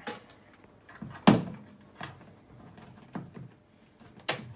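Handling knocks while the floodlight is being measured: one sharp clunk about a second in, the loudest, then three lighter knocks spread through the rest.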